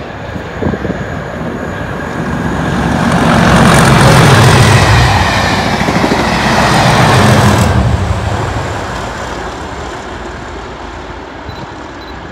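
Colas Rail Class 37 diesel locomotives with their English Electric V12 engines hauling a test train past: engine rumble and wheels on the rails swell to a loud peak, then fade away as the train recedes.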